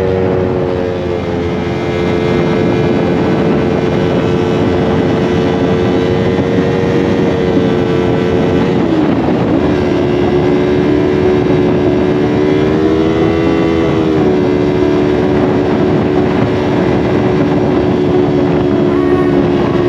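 Motorcycle engine running steadily while riding, its pitch dipping and settling lower about nine seconds in, then rising and falling slightly a few seconds later.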